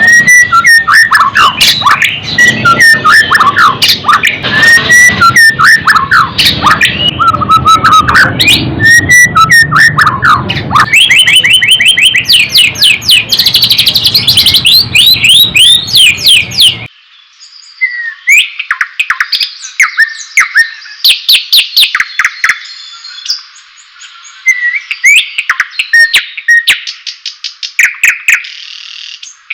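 White-rumped shama singing loudly: a rich, varied stream of whistled phrases with fast rattling trills in the middle. About two-thirds of the way in the sound turns abruptly thinner, with the low end cut away, while the song goes on.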